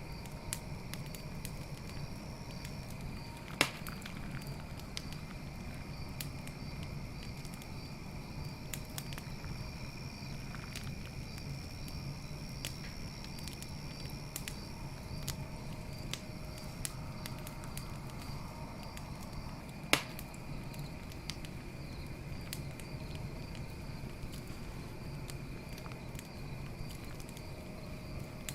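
Campfire crackling with many small snaps and two sharp, loud pops, about 4 seconds in and again past the middle. Crickets chirp steadily behind it in an even, pulsing trill.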